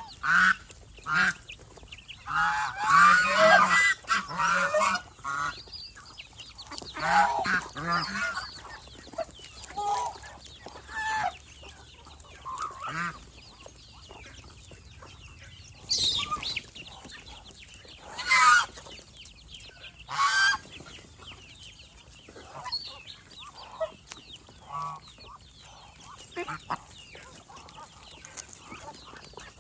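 A flock of domestic geese honking, many short calls in bunches, with a few louder, sharper calls just past the middle.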